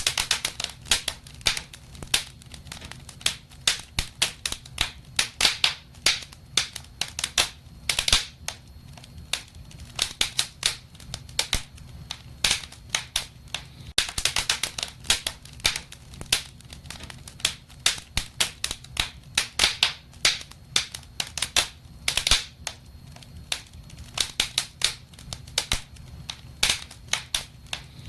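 Wood fire burning in a fireplace, crackling with a constant run of sharp, irregular snaps and pops over a low rumble.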